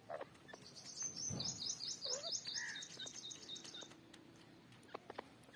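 A small bird giving a fast run of high chirps for about three seconds, with a couple of lower calls in the middle.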